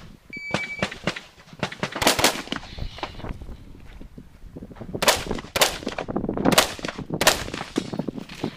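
An electronic shot-timer beep near the start signals the start of the course of fire, then semi-automatic rifle shots follow: a string of about eight shots at uneven spacing, some in quick pairs, each with an echoing tail.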